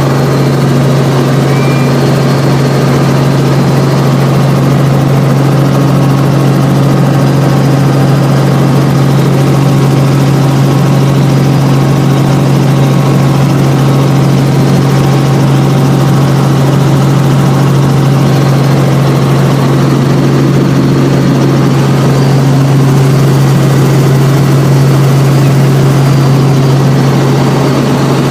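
Helicopter in flight: a loud, steady low drone of rotor and engine that holds one pitch without change.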